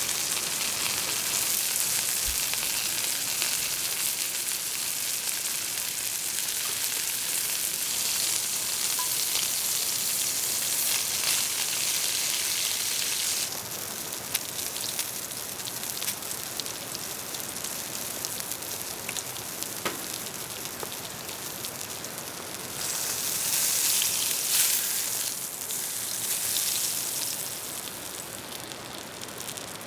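Pork belly rolls wrapped around green onions sizzling as they fry over a campfire, a steady hissing sizzle that drops suddenly about halfway through and swells again near the end.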